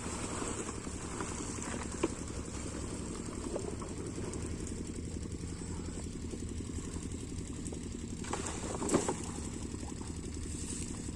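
8 hp Rajkot single-cylinder diesel pump-set engine running steadily with an even low chugging, with a click about two seconds in and a brief louder noise near nine seconds.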